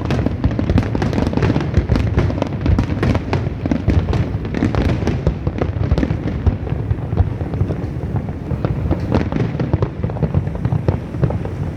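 Fireworks display: a dense, unbroken barrage of bangs and crackles, many in each second.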